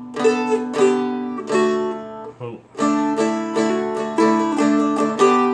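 A Seagull Merlin, a four-string fretted dulcimer, picked: single melody notes ring over steadily droning strings. About two and a half seconds in the playing breaks off briefly with a short 'oh', then resumes with a quicker run of notes.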